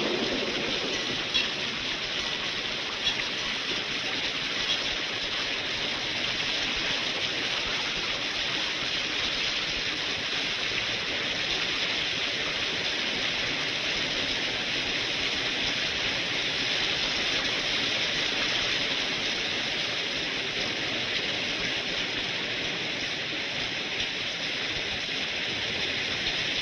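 Heavy rain pouring steadily, a dense even hiss, with a few light taps in the first five seconds. The rumble of a passing train fades out in the first second.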